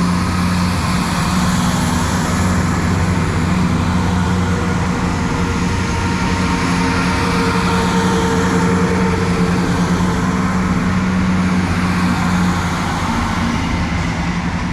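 Diesel multiple-unit passenger train running past at close range, its underfloor engines droning steadily over the rumble of wheels on the rails, easing slightly near the end.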